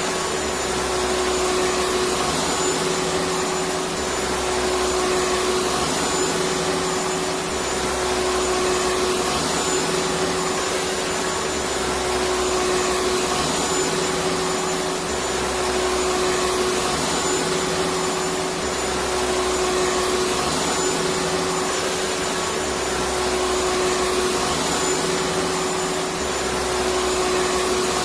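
Electric vacuum cleaner running steadily with a constant whine, and a low hum that swells and fades about every three seconds.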